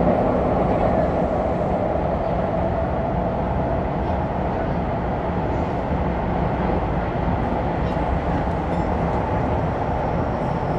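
Subway train running steadily through a tunnel: a continuous rumble of wheels and motors, with a whine that fades away in the first couple of seconds.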